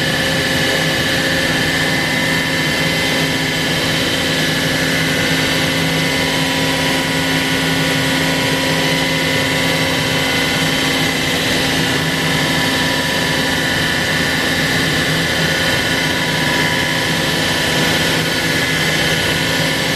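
CNC router spindle running steadily while milling a wooden guitar neck: a loud, even rush with several held whining tones, unchanging throughout.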